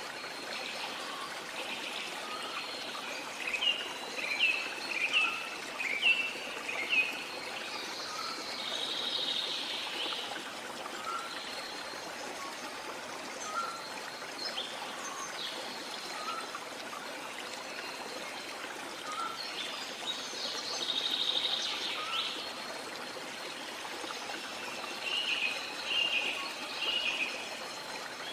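Steady rush of a waterfall with birds singing over it: a run of five or six sharp falling chirps a few seconds in, a trill twice, and another short run of chirps near the end. A softer bird note repeats about once a second underneath.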